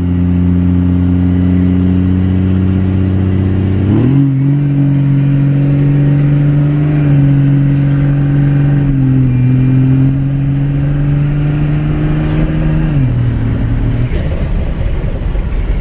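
Cummins diesel pickup with a 4-inch turbo-back exhaust pulling hard from a roll under full throttle. The engine note steps up sharply about four seconds in, holds high with a brief dip, and drops back near the end. A faint high whistle climbs over the first few seconds.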